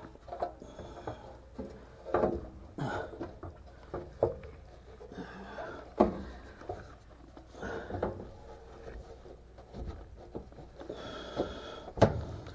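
Dryer's sheet-metal cover panel being handled and fitted back into place: irregular knocks, rubs and scrapes, with sharp knocks about six seconds in and near the end.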